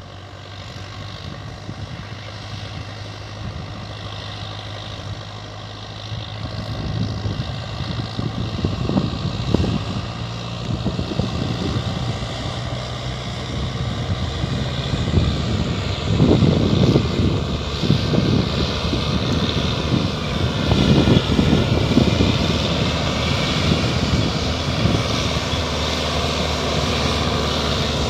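Diesel tractor engine labouring under a full load on a climb, a steady drone that grows louder. From about a quarter of the way in, uneven low rumbling surges come over it.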